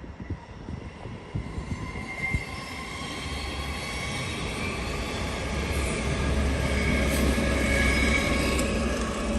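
A train running through the station, its rumble growing steadily louder, with high steady squealing tones from the train.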